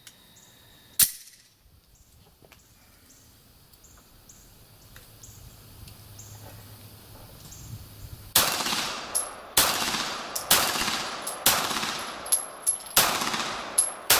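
Beretta 92G Elite Compact 9 mm pistol fired rapidly, about ten shots in quick succession over the last six seconds, roughly two a second. A single sharp shot comes about a second in.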